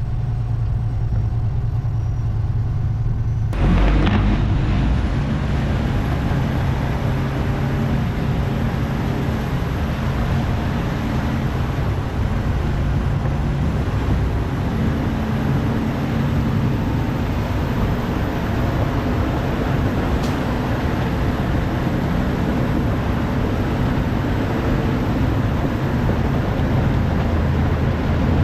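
Heavy diesel truck running on the road, heard from the cab. About four seconds in the noise jumps suddenly and stays louder and rougher from then on.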